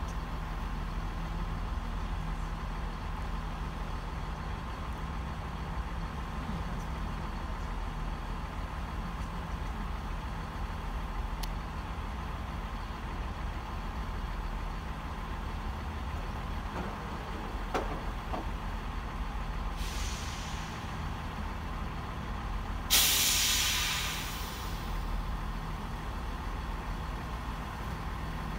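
Diesel passenger trains running with a steady low engine drone. About twenty seconds in there is a short hiss. About twenty-three seconds in comes a loud hiss of air released from a train's air brakes, which fades away over about two seconds.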